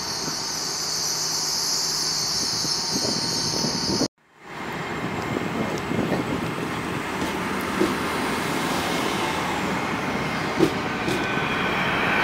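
A GWR Hitachi intercity express train running along the platform close by: a steady hiss as it comes in, then wheel and running noise with a falling whine and a couple of sharp clicks as the cars go past. The sound cuts out briefly about four seconds in.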